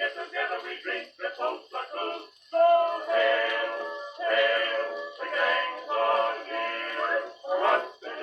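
1912 acoustic recording of a male vocal quartet with orchestra playing on an Edison Diamond Disc phonograph. The sound is thin and narrow, with no deep bass and little top. Short choppy notes give way to longer held chords about two and a half seconds in.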